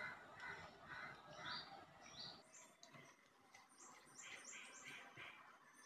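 Faint bird chirping: strings of short, high notes in small quick groups over low background noise.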